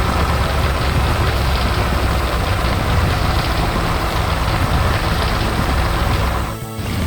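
Heavy construction-vehicle engine running steadily with a low rumble, dipping briefly near the end before picking up again.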